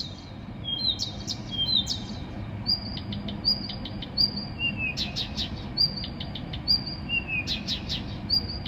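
A songbird singing a repeated night song. First come short two-note whistles, then from about three seconds in long steady high whistles, each followed by a quick run of sharp clicks, the phrases repeating every second or so.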